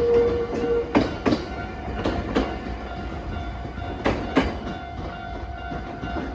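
Nankai Line electric train passing over a level crossing: wheels clacking over rail joints in pairs with a steady rumble and a faint steady tone. The clacks thin out after about four seconds and the sound slowly fades.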